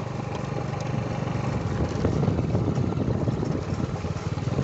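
A small engine running steadily with an even, rapid low pulse.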